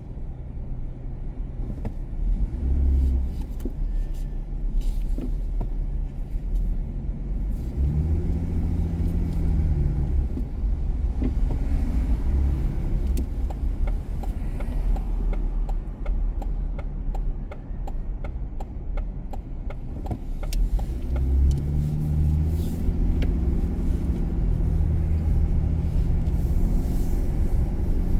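Car driving on city streets: steady engine and road rumble, with the engine note rising as the car speeds up about 8 seconds in and again about 21 seconds in.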